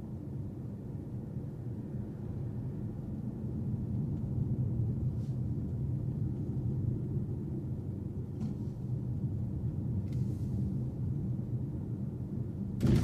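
Car driving: a steady low rumble of road and engine noise, with a few faint clicks. Right at the end comes a sudden loud knock.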